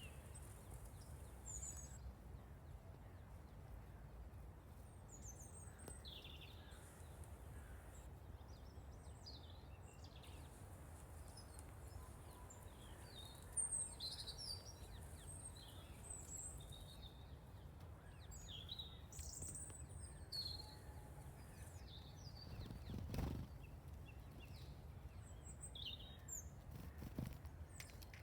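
Small songbirds calling and singing in short, high chirps scattered through, faint over a steady low background rumble. A single soft knock a few seconds before the end.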